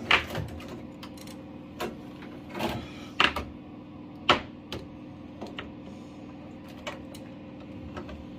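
Irregular metallic clicks and knocks of a screwdriver and metal fittings being worked on a boiler's flow manifold, with a few sharper knocks among them. A steady low hum runs underneath.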